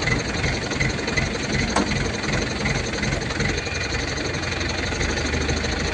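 Diesel engine of the heavy machinery running steadily, with a regular knocking rhythm. A single sharp click comes a little under two seconds in.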